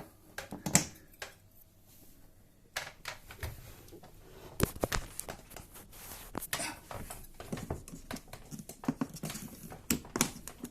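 Irregular clicks, taps and knocks of a knife prying at the clip-on plastic bottom cover of a Samsung dishwasher, starting about three seconds in.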